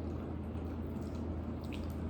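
Steady low hum of room noise, with a few soft wet clicks of chewing near the end.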